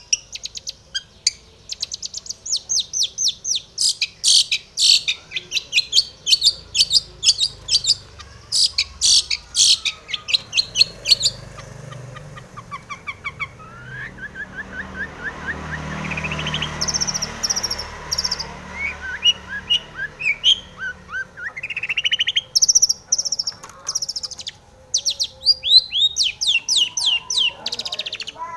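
Long-tailed shrike (cendet) singing vigorously: rapid runs of short, sharp, high notes, several a second, broken about halfway by a lower quick trill and a rising noisy rush before the sharp notes return.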